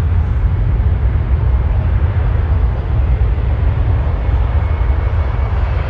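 Jet airliner engines giving a steady, loud low rumble with no clear pitch.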